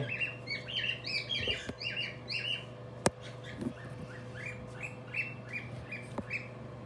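A bird chirping over and over in short falling notes, a few a second. A single sharp click comes about three seconds in, over a steady low hum.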